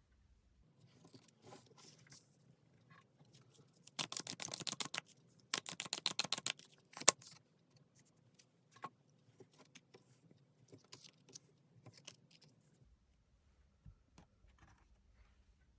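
Tarot cards being shuffled: two runs of rapid card clicks about a second each, the first about four seconds in, followed by one sharp snap, with light scattered taps and rustles of card handling around them.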